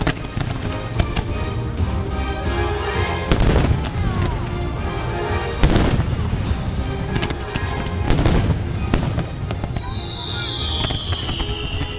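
Fireworks bursting over the show's music, a string of cracks and booms with the three loudest about three, five and a half and eight seconds in. A long falling whistle starts about nine seconds in.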